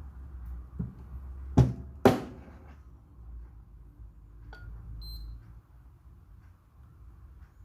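Two sharp knocks about half a second apart, the second ringing briefly, over a low steady hum that fades out about five and a half seconds in; a short high beep about five seconds in.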